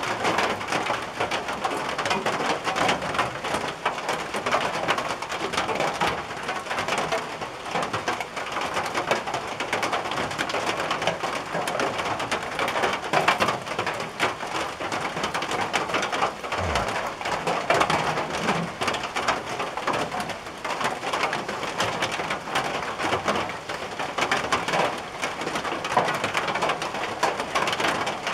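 Rain falling steadily on a tin roof: a dense, even patter of countless drops on the metal.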